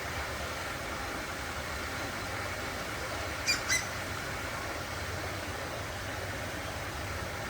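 Two short, sharp bird chirps a quarter of a second apart, about halfway through, over a steady background hum.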